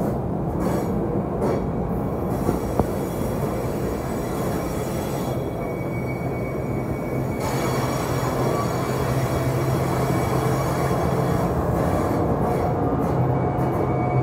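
NJ Transit Arrow III electric multiple-unit cars rolling past on the rails: steady wheel-on-rail noise with a low electrical hum that grows stronger about six seconds in, joined by a faint high whine.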